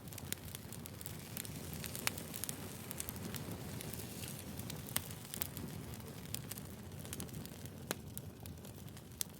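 Burning firewood crackling: a steady low rustle of the fire with frequent sharp pops and snaps, a few of them louder than the rest.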